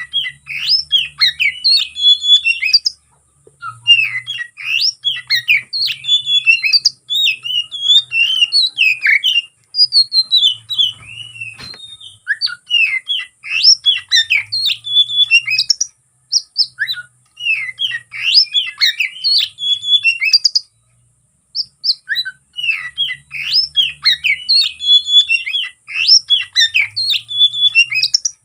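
Oriental magpie-robin (kacer) singing a fast, varied song of chirps and whistles, with mimicked phrases woven in. It sings in bursts of several seconds with brief pauses between them.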